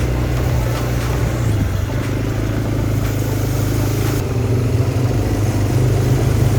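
Automatic ATV engine running steadily while under way, with rough road noise over the drone and a slight shift in pitch about a second and a half in.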